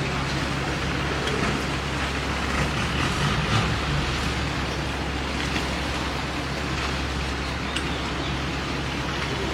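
Long-tail boat engine running steadily, a low even drone with a rush of water and wind noise over it.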